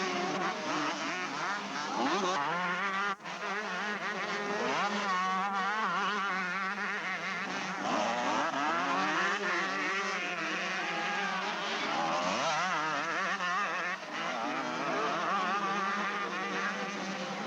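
Several motocross motorcycle engines racing at once, their pitches rising and falling as they rev up and down, with a brief drop-out about three seconds in.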